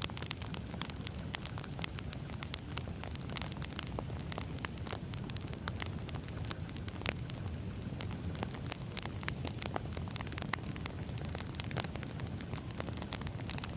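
Wood fire burning: a steady low rumble and hiss with frequent, irregular sharp crackles and pops of burning logs.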